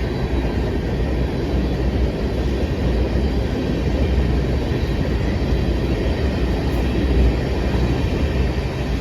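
A long string of empty covered-hopper potash cars rolling past: a steady rumble and rattle of steel wheels on the rails.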